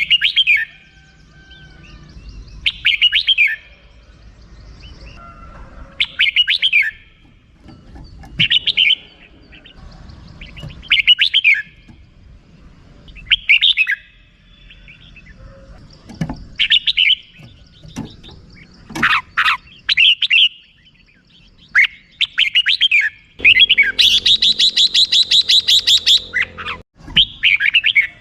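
Red-whiskered bulbul giving its rapid 'rik' chattering calls: short phrases every two to three seconds, then a longer, fast, even run of notes lasting about three seconds near the end.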